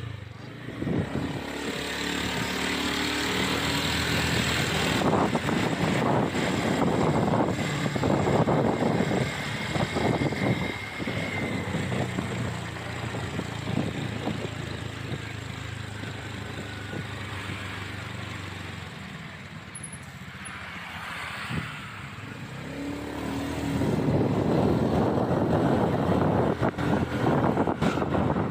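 Motorcycle engine running while riding, with wind rushing over the microphone. The engine note rises as the bike speeds up during the first few seconds and again near the end.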